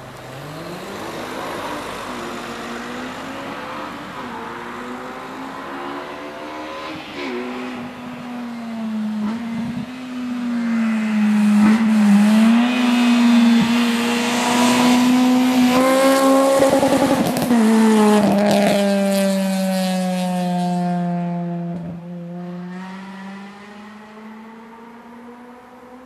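Honda Civic EG's swapped K20 inline-four engine revving hard under load. The pitch climbs over the first several seconds, holds high and grows loudest in the middle, then falls away and fades as the revs drop, picking up briefly again near the end.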